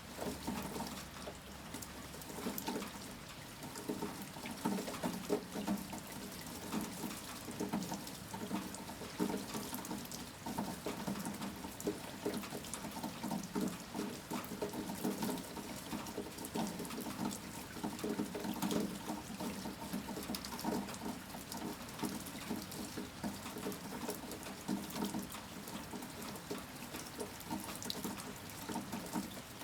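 Steady storm rain falling: a dense, irregular patter of drops with splashing water.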